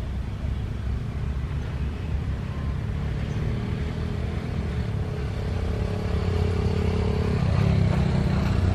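Steady low engine rumble that grows slowly louder, with a faint steady hum in the middle for a few seconds.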